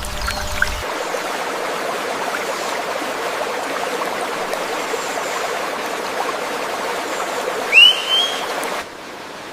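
Stream water running steadily. About eight seconds in, a bird gives one loud whistled call that rises and then levels off. The water sound cuts off suddenly just before the end, leaving a quieter background.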